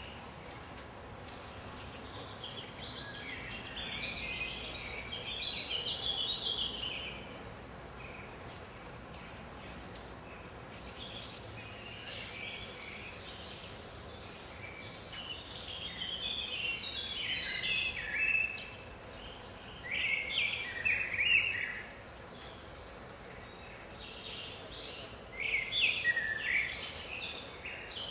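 Songbirds singing, with several runs of high, quick chirping notes over steady background noise.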